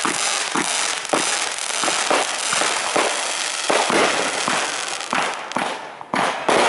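Aerial fireworks going off in a rapid barrage, several sharp reports a second over a dense, continuous wash of noise.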